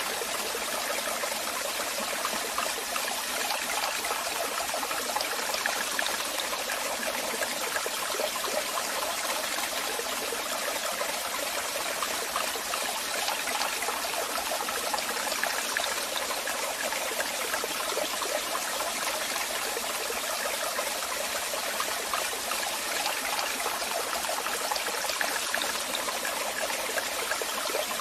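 Waterfall: falling water making a steady, even noise with no breaks.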